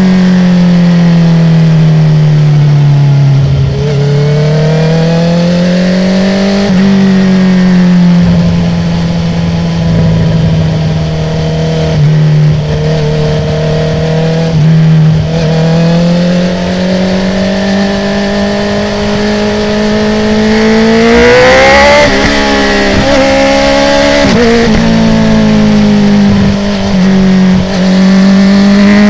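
Honda CB650R inline-four running through an Akrapovic titanium full exhaust with the dB killer removed, its pitch falling and rising as the bike rides winding roads. It holds a steady pitch in the middle, then climbs hard about three-quarters of the way through, with a couple of brief dips near the end.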